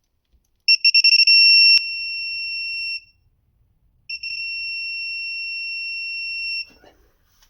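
Electronic beeper of a digital torque wrench sounding twice: a quick run of beeps that turns into a steady high tone, the alert that the set torque of 30 Nm has been reached on the oil drain plug.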